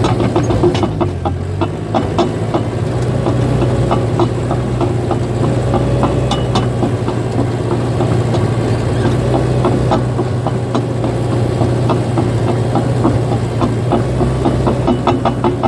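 Caterpillar bulldozer's diesel engine running steadily, with an irregular clatter of knocks from the steel tracks that grows busier near the end.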